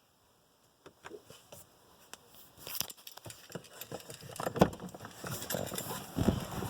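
Handling noise: scattered clicks, rustling and light knocks that grow busier and louder, with two heavier thumps near the end. No engine is running.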